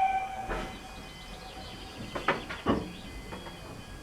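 Narrow-gauge steam locomotive: the tail of its whistle dies away at the start, then slow exhaust chuffs follow, one about half a second in and two close together a little past the middle.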